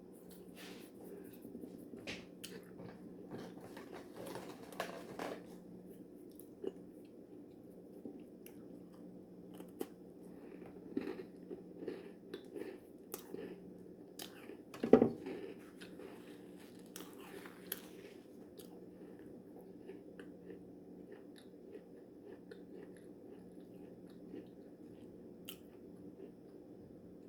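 A person chewing and biting into a crumbly orange shortbread cookie (polvorón), with soft crunches and small mouth clicks. A sharper click comes about halfway through, and the chewing fades in the last third. A steady low hum runs underneath.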